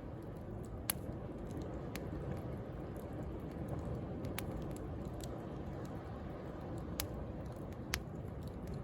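Wood bonfire crackling with sharp snaps and pops, the loudest about a second in and twice near the end, over the steady wash of sea waves.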